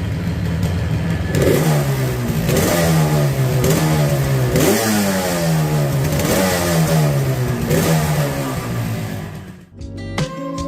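Yamaha RD350's air-cooled two-stroke parallel-twin idling, then blipped about seven times through its exhaust silencer, each rev rising sharply and falling back. The engine note fades near the end as music starts.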